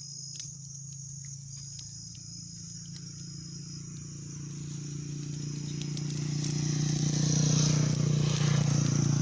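Crickets chirring steadily at night, under a low hum and a rush of noise with faint crackles that swells over the second half and is loudest near the end.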